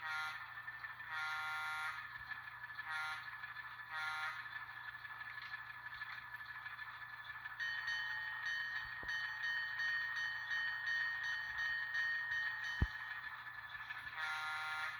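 Diesel locomotive horn from an ESU LokSound decoder in an N scale model, played through the model's tiny speaker. It sounds four blasts, short, long, short, short, then one more near the end. Between them a bell rings steadily for several seconds, and there is a single sharp click about 13 s in.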